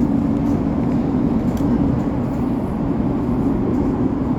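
Elizabeth line Class 345 train heard from inside the carriage, running at speed through the tunnel under the Thames: a steady, low rumble of wheels on rail.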